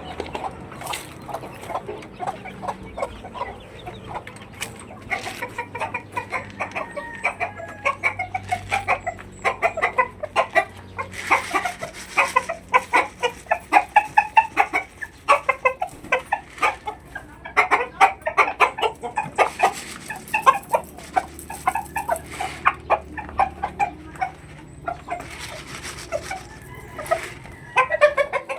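Backyard chickens clucking: a dense run of short calls in quick succession that thickens through the middle and thins near the end.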